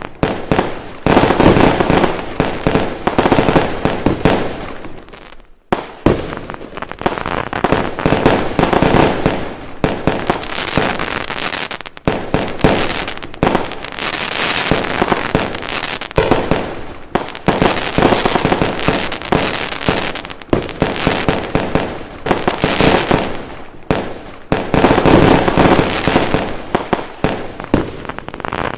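Fireworks going off: a dense, rapid series of bangs and crackles in swelling waves a few seconds long, with a short lull about a fifth of the way in.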